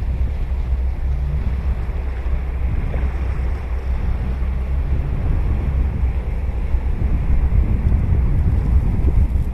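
Ocean surf washing onto a sandy beach, a steady rushing noise, with wind buffeting the microphone as a constant low rumble.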